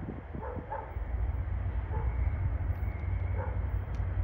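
Steady low rumble of a train, with a dog barking a few short times.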